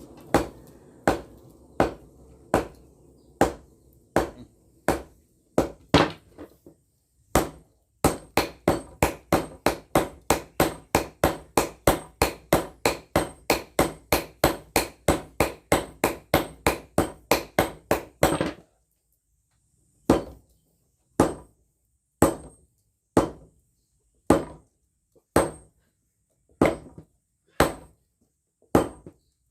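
Hand hammer striking steel on an anvil, forging a golok blade from railway-rail steel. Each blow rings out. The blows come steadily at first, then in a fast run of about four a second, then slow to about one a second after a short pause near the two-thirds mark.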